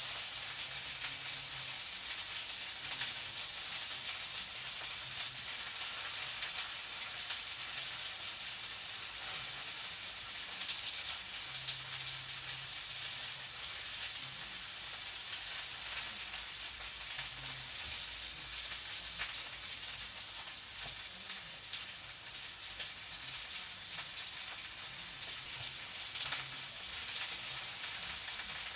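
Food frying in a pan: a steady sizzle with fine crackles and spits throughout, under a faint low hum that comes and goes.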